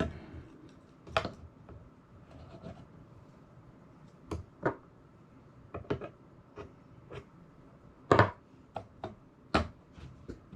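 Irregular clicks and knocks of small hard parts being handled and fitted together during assembly, the loudest knock about eight seconds in.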